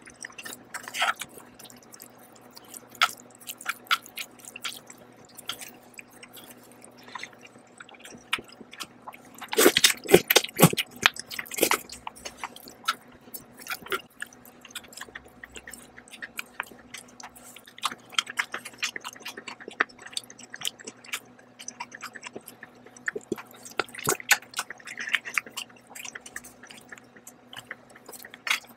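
A person eating stir-fried noodles close to the microphone: wet chewing and smacking mouth clicks, with a louder run of eating sounds about ten seconds in.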